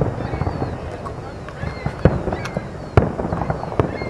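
Aerial fireworks shells bursting: a continuous low rumble of bursts, with three sharp bangs about two, three and four seconds in.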